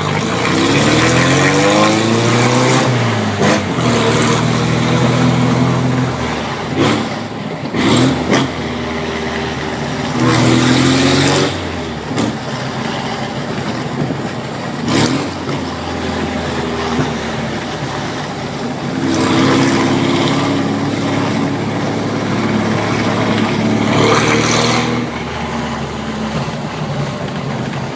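Air-cooled VW Beetle flat-four engine running through a straight 4-into-1 exhaust with no muffler, its revs climbing and falling several times. A few sharp cracks come through at intervals.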